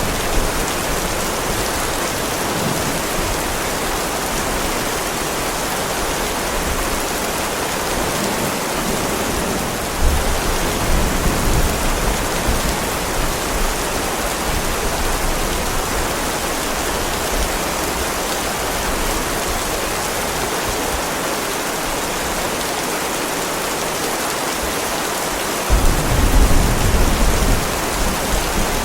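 Heavy rain falling steadily on a driveway. A brief low rumble comes about a third of the way in, and a stronger rumble of thunder lasts about two seconds near the end.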